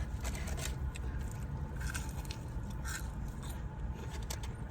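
A person chewing a crunchy breaded fried chicken tender: scattered crisp crunches over a steady low hum.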